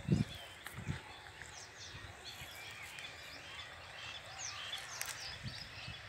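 Birds chirping in the background, many short, faint calls overlapping throughout, with a low thump at the very start and another about a second in.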